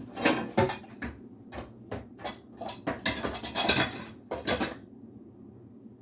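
Dishes and food containers clinking and clattering as they are handled, a quick string of knocks that stops near the end.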